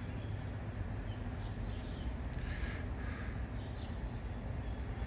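Faint bird calls, a few short calls about two and a half to three seconds in, over a steady low rumble.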